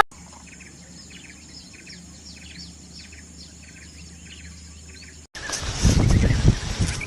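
Small birds chirping faintly in a quick run of short, repeated chirps. About five seconds in, this cuts to a much louder noisy passage with low thuds.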